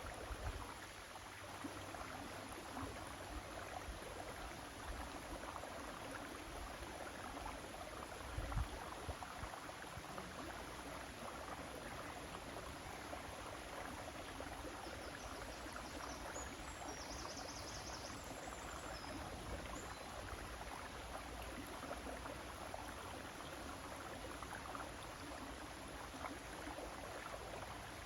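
River water flowing steadily, a continuous rushing hiss. A couple of low thumps come through, one just after the start and a louder one about eight seconds in, and faint high chirps sound briefly around the middle.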